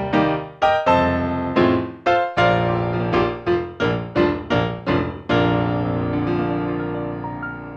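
Solo piano playing a run of struck notes and chords, then settling on a held chord a little past five seconds in that slowly fades away.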